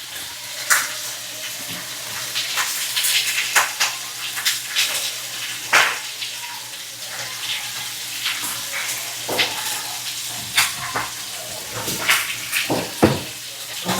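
Meat frying and sizzling in a pan, a steady hiss broken by frequent sharp clicks and knocks of utensils against cookware.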